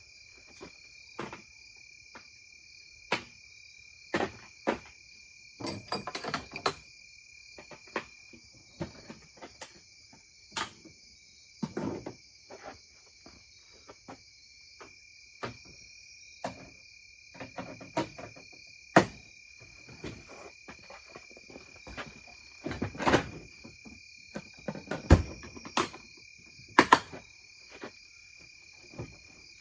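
Hand tools and parts knocking and clanking at irregular intervals as they are gathered up and put away, the loudest knocks in the second half. A steady chirring of crickets runs underneath throughout.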